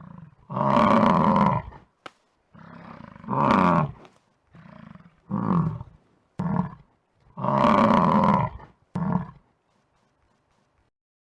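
Lion roaring in a bout of calls: about six loud roars, two of them over a second long, with quieter, shorter grunts between them.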